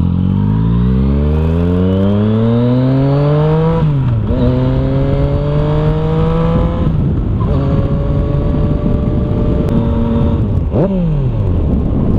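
Yamaha FZ-09 inline-three engine through an Arrow exhaust with the dB killer removed, pulling hard under acceleration. Its pitch climbs for about four seconds, drops at an upshift and climbs again, shifts once more and holds steady. Near the end the pitch falls steeply as the throttle is closed, then rises again.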